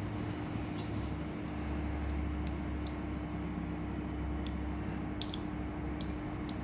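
A homemade wire-cutting machine running: a steady hum, with a low rumble swelling for a few seconds from its stepper-motor wire feeder, and a scattering of light sharp clicks.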